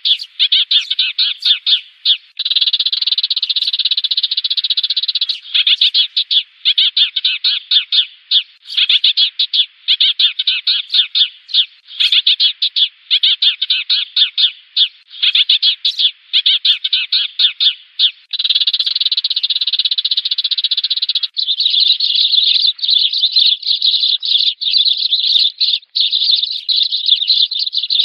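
Sparrows chattering: a dense, continuous stream of rapid chirps, the kind of flock-calling sparrow sound used as a decoy call to lure sparrows. After about 21 seconds the chirps become higher and thinner.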